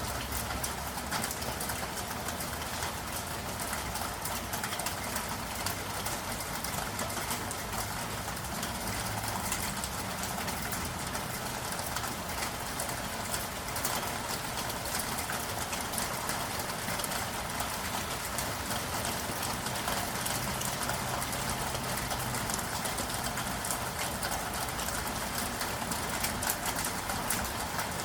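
Steady rain falling in a city, a dense hiss of small drop ticks, with a low traffic rumble underneath.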